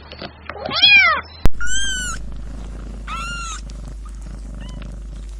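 A cat meows once, then, after an abrupt cut, a kitten gives two high-pitched mews about a second apart and a faint third, over a low steady purr.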